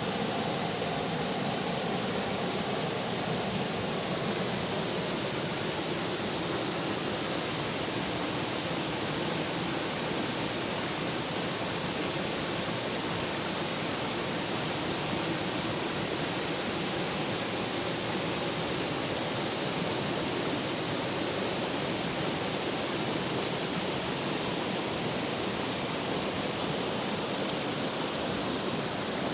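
River water flowing, a steady rushing that holds level throughout.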